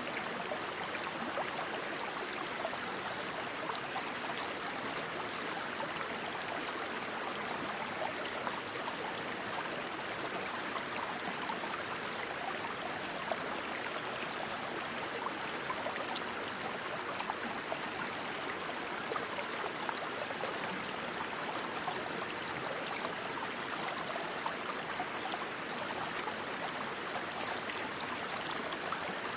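Rushing stream water running steadily. Short high chirps come and go over it, with a brief trill about seven seconds in and another near the end.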